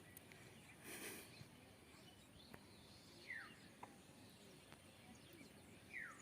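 Near silence: quiet outdoor ambience with two faint, short, falling bird chirps, one about three seconds in and one near the end.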